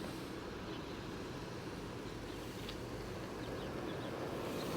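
Gale-force wind blowing across the microphone: a steady rushing noise with a low rumble.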